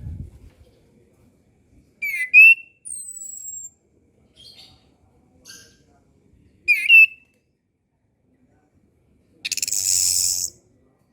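Chestnut-capped thrush (anis kembang) singing in short separated phrases: sharp slurred notes and a high, thin whistle that falls in pitch. Near the end comes a loud, harsh rasping note lasting about a second.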